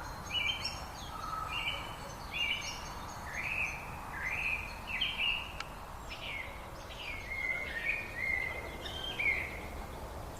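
Songbirds singing: a busy run of short whistled and chirping notes, some rising and some falling, overlapping one another, over a steady low background noise.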